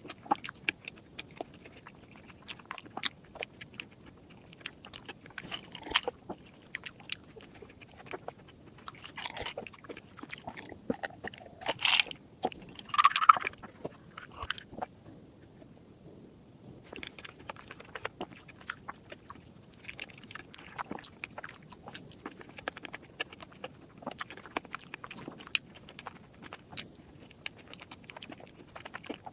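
Close-miked ASMR eating of chocolate desserts: irregular crisp bites and chewing with sharp crunches, a louder run of bites a little before halfway, then a short pause.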